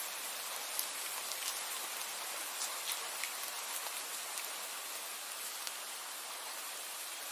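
Steady rainfall, an even hiss with many individual drops pattering and ticking sharply on a surface.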